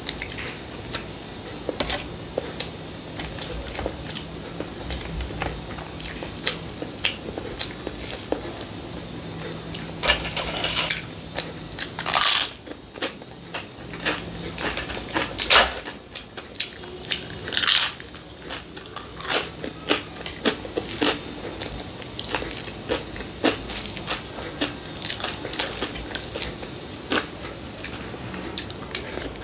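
A person eating close to the microphone: chewing, biting and crunching food, with many short clicks and a few louder crunchy bites, about 12, 15 and 18 seconds in.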